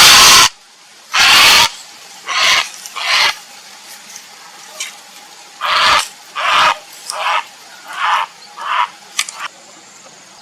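Grey heron giving harsh, croaking squawks as courtship calls. Two long, loud calls come at the start, followed by a series of shorter, fainter calls in quick succession.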